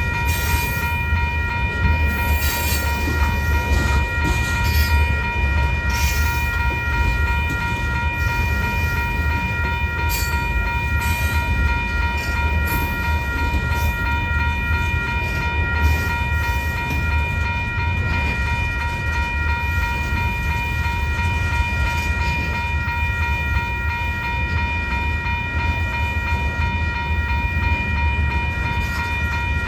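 Freight train rolling past: a steady low rumble with clicks of wheels over rail joints, and a steady high ringing tone throughout.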